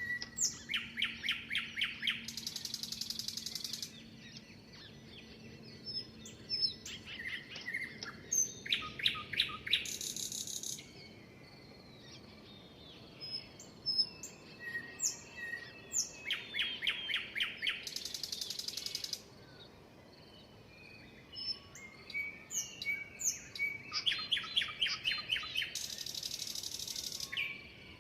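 Songbirds singing. One bird repeats the same song four times, about every eight seconds: a quick run of rapid notes ending in a buzzy trill, while other birds give short chirps and whistles in between.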